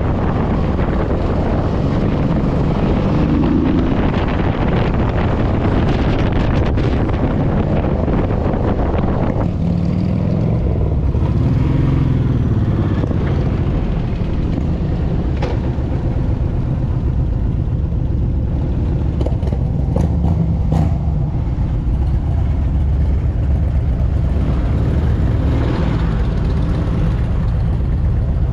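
Motorcycle under way at road speed: a Honda VTX1800's big V-twin engine running steadily under a rush of wind on the microphone, the wind easing about nine or ten seconds in.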